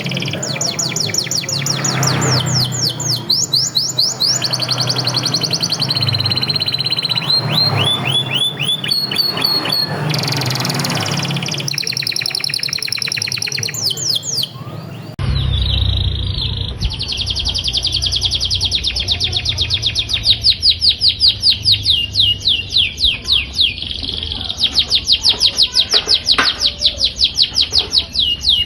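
Domestic canaries singing vigorously in long, rapid trills of repeated high notes. The recording changes abruptly about halfway through to another canary rolling fast, evenly pulsed trills.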